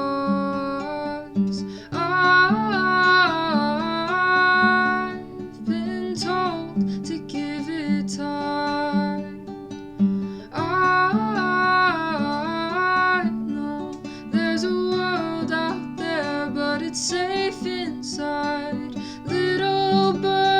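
A singer singing a slow song over plucked-string accompaniment, with repeated low chord notes under the voice.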